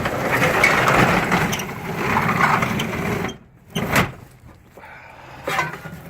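Metal rattling for about three seconds as parts of a delivery truck's steel box body are moved, then a sharp bang about four seconds in and a lighter knock near the end.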